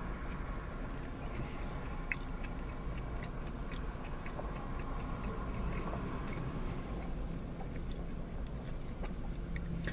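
A person chewing and biting food close to the microphone, most likely a corn puppy (sausage in corn batter) dipped in sauce, with faint scattered mouth clicks over a steady low hum.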